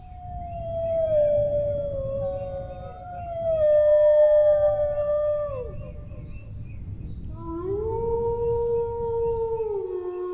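Dog howling in long drawn-out notes: a slowly falling howl, a second howl overlapping it that drops off sharply, a short break, then a new howl that rises and steps down to a lower note near the end.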